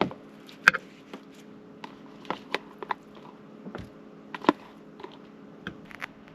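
Someone eating a meal: scattered short clicks and taps of cutlery against a plate, with bites, over a steady low hum.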